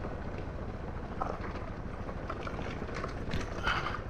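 Suzuki DR650's single-cylinder engine running steadily while the bike picks its way over a rocky trail, with scattered knocks and clatter of the tyres and chassis over loose rock.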